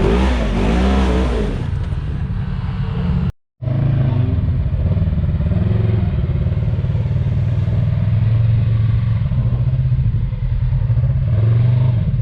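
Side-by-side UTV engine revving, its pitch rising and falling at first, then after a brief dropout running steadily under load as a low drone.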